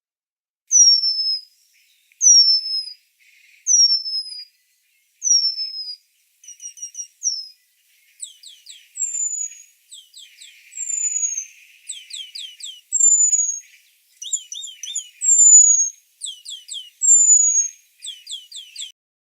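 Songbird singing: a series of high, clear, down-slurred whistled notes about every second and a half, changing from about eight seconds in to quicker runs of falling notes mixed with longer slurred whistles.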